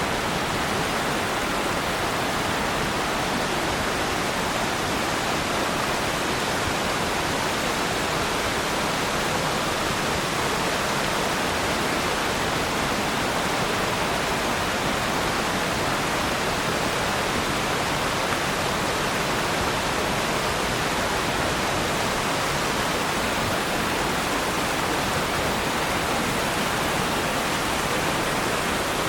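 Waterfall: water falling and rushing in a steady, even roar with no breaks.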